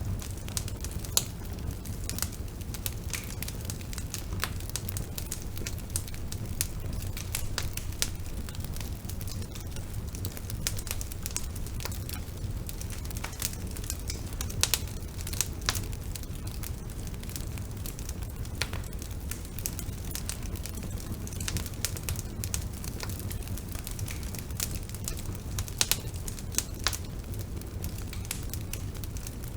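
Bonfire burning with a steady low rumble of flames and frequent sharp crackles and pops of burning wood, a few of them louder.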